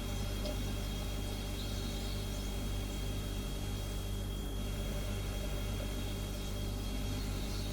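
Refrigerator humming steadily: a low electrical hum over a soft noise bed, with a faint thin high whine that stops near the end.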